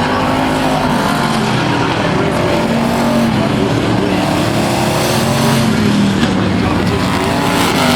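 A field of thunder trucks racing on a speedway, several engines running at once, their pitches rising and falling as they accelerate and pass.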